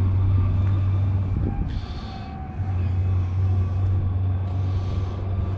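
Fiat 640 tractor's diesel engine running with a steady low drone that eases off briefly about a second and a half in, then picks up again. Two short hissing noises come through over it, about two seconds in and near the end.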